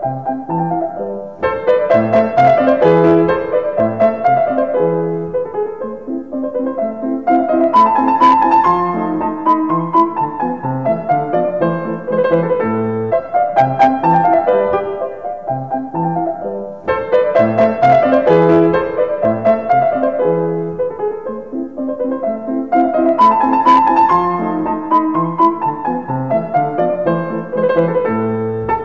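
Background piano music: a light melody over a repeating pattern of short notes that loops every few seconds.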